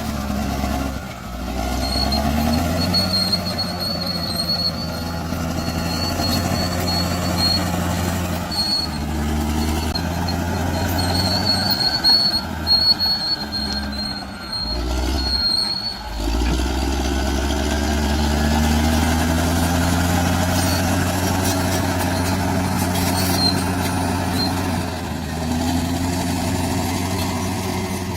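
Bulldozer's diesel engine working under load, its pitch rising and falling with the throttle, with a thin high whine over it. The engine sound drops briefly three times, most clearly a little past the middle.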